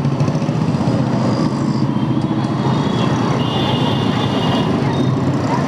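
Motorcycle engine running at low speed in heavy city traffic, with the steady rumble of the vehicles around it.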